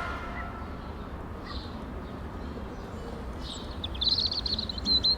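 Outdoor ambience with a steady low background hum and a bird chirping: a faint call about a second and a half in, then a quick run of high chirps near the end.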